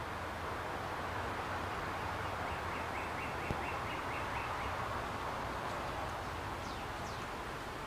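Outdoor ambience of a wooded park: a steady background hiss, with a bird calling over it. The bird gives a quick run of short repeated notes about four a second near the middle, then two fast downward whistles near the end. There is a single brief click midway.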